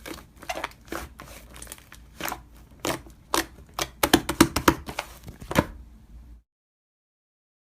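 Quick, irregular clicks and taps, several a second and bunching into fast runs around the middle, that cut off abruptly about six and a half seconds in, leaving dead silence.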